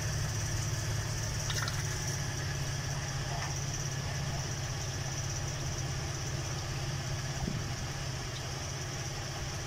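2018 Ford Expedition's 3.5-litre twin-turbo V6 idling steadily. It is running to circulate the 10R80 ten-speed automatic's fluid, so new fluid pushes the old, black fluid out through the transmission cooler line.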